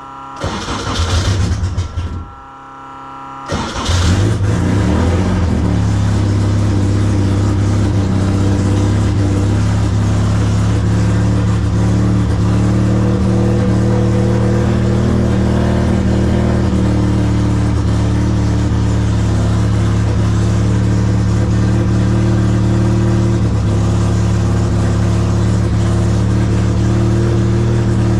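1963 MGB race car's B-series four-cylinder engine started from cold: a short burst of cranking, a brief lull, then about three and a half seconds in it fires and settles into a steady, even idle.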